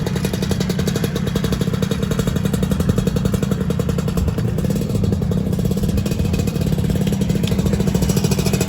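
Two-stroke Lambretta scooter engine running close by, with a fast, even firing beat that holds steady.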